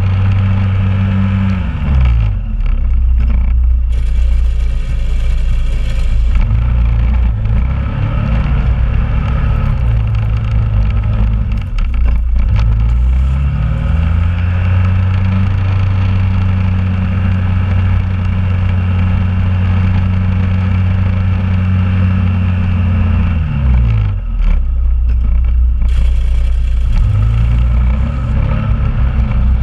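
2001 Honda Rubicon ATV's single-cylinder engine running under load while plowing snow, its pitch dropping about two seconds in, rising again around thirteen seconds, dropping near twenty-four seconds and picking up again near the end. Two brief bursts of hiss come in a few seconds in and near the end.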